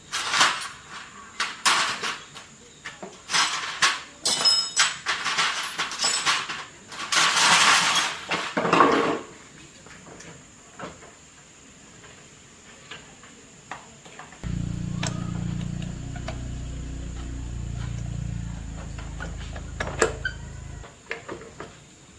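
Loud clattering and scraping of hard objects being handled for several seconds, then quiet. Later a deep, low sound sets in suddenly, shifts pitch in steps for about six seconds and cuts off.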